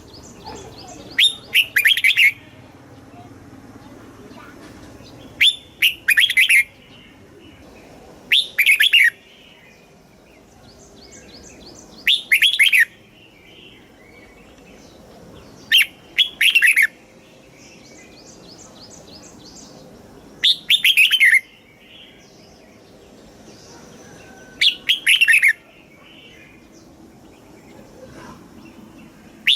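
Red-whiskered bulbul singing: short, loud phrases of quick falling whistled notes, repeated about every four seconds, seven times. Fainter, higher chirping fills the gaps between phrases.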